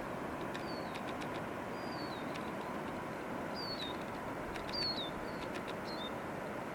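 Steady rushing of a waterfall. A bird repeatedly gives short, high, falling whistles over it.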